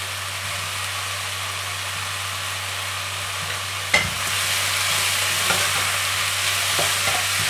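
Chicken and soaked squid sizzling in oil in a hot wok. About four seconds in, a wooden spatula knocks against the pan, and the sizzle grows louder as the pieces are stir-fried, with a few scraping strokes.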